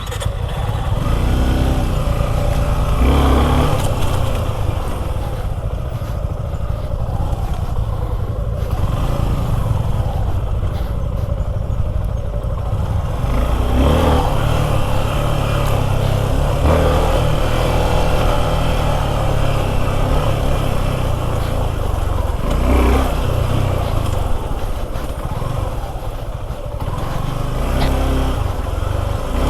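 Suzuki V-Strom 250 SX's single-cylinder engine running while the bike is ridden over rough off-road ground, with a steady low rumble and a few knocks from bumps.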